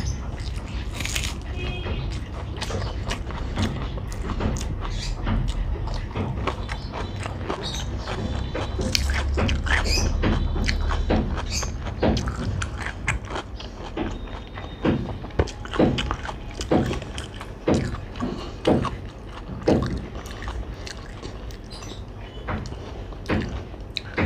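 A person eating with their hand: wet chewing and crunchy bites of raw shallot, with rice being mixed by the fingers on the plate. In the second half the chews come as a run of distinct crunches, one or two a second.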